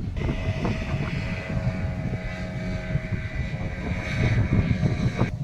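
An engine running steadily, a low drone with a steady pitched whine above it, starting and stopping abruptly.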